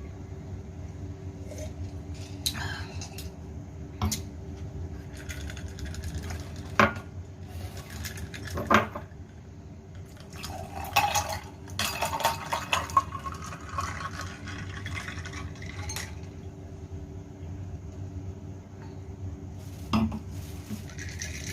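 Someone drinking Adem Sari for the camera: scattered sharp clinks of drinkware, and a busier run of liquid and swallowing sounds about ten to thirteen seconds in, over a steady low hum.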